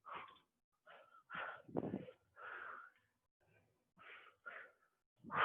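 A person breathing hard and fast, in a series of short, uneven puffs of breath: out of breath from doing burpees.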